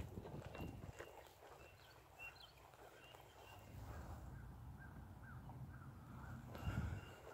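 Faint birds chirping, with a run of short repeated chirps in the second half, over a low outdoor rumble and a few soft footsteps near the start.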